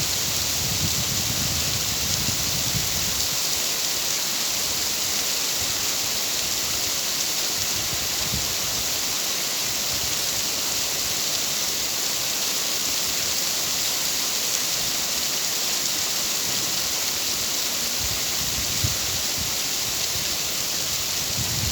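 Steady, even rainfall. A low rumble sits under it for the first three seconds, then fades.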